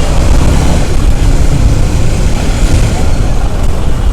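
Motorcycle riding in slow city traffic: a loud, steady low rumble of the bike and the surrounding road traffic.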